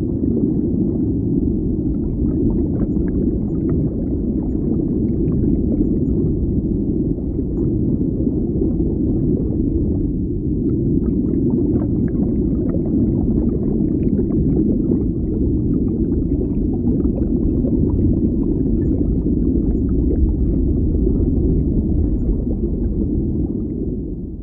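Underwater ambience: a steady, muffled low rumble of water with faint scattered crackles and ticks, beginning to fade out near the end.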